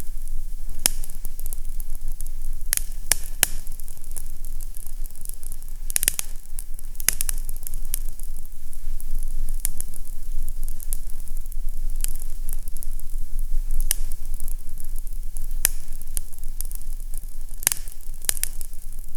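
Fireplace fire crackling, with irregular sharp pops and snaps, several close together around the middle and near the end. Under them runs a steady low rumble and a soft hiss.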